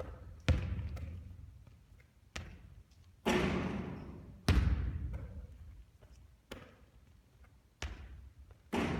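Basketball bouncing and hitting hard surfaces during three-point shooting practice: about seven separate thuds spread irregularly over nine seconds, each echoing and fading out.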